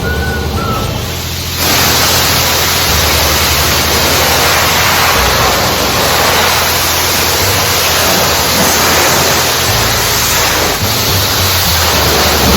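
High-pressure spray wand at a self-serve car wash blasting soapy water onto a car: a loud, steady hiss that cuts in abruptly about a second and a half in, over a low pump hum.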